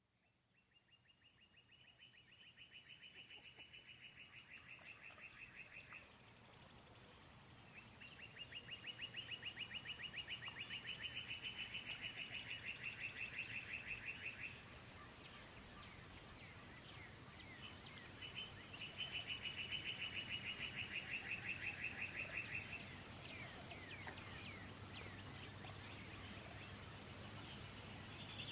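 Crickets chirring at dusk in a continuous, high-pitched, finely pulsing chorus, fading in gradually. A lower, rapidly pulsed trill comes and goes three times, each bout lasting several seconds.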